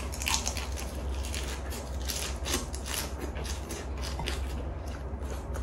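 Close-up chewing of a lettuce wrap of spicy stir-fried chicken: a rapid run of crisp crunches and wet mouth clicks, over a steady low hum.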